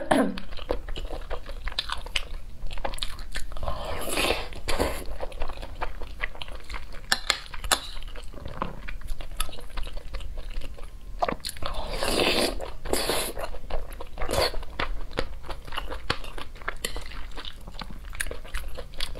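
A woman chewing and biting big spoonfuls of rice, braised pork and kimchi: wet mouth clicks and crunches, with louder bursts of chewing about four seconds in and again around twelve seconds in.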